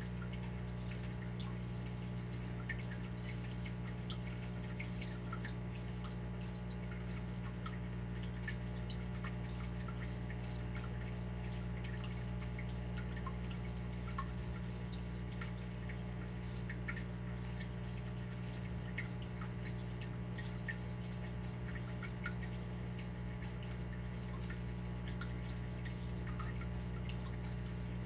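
Water dripping: many small, irregular drips over a steady low hum.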